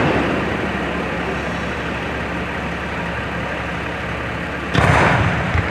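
Fireworks display: the rumble of one aerial shell dies away, then a steady low background hum. About five seconds in, another shell bursts with a sudden loud boom that rumbles and fades.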